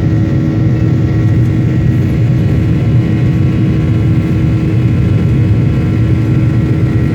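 Steady engine and airflow rumble inside an airliner cabin, with a few even hums over it.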